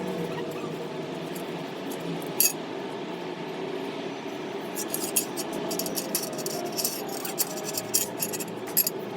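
Light metallic clinks and taps, one about two seconds in and a quick run of them in the second half, over a steady hum.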